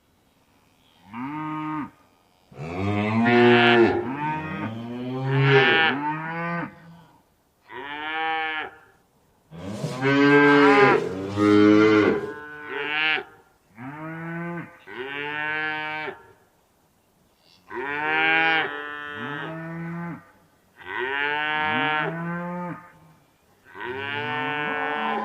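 A series of about a dozen long animal calls, each a second or two long, rising and then falling in pitch, with abrupt dead-silent gaps between them.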